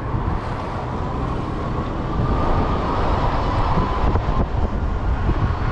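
Wind rumbling over the microphone with road noise from a fat-tire e-bike in motion, and a faint steady whine that rises slightly around the middle.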